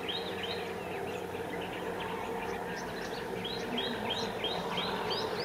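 A small bird calling a short chirping note over and over, about three times a second, in one run at the start and another from about three and a half seconds in. Under it runs a steady low drone.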